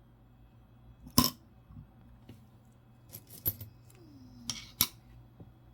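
Small metal coins clinking together as they are handled and set down: a sharp clink about a second in, then a few more in the middle and two near the end.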